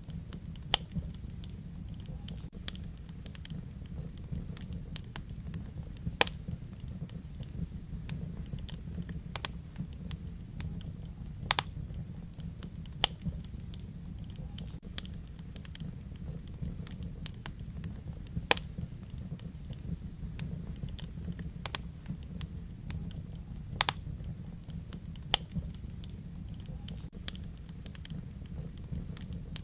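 Wood fire in a fireplace crackling, with sharp pops at irregular intervals over a steady low rumble from the burning fire.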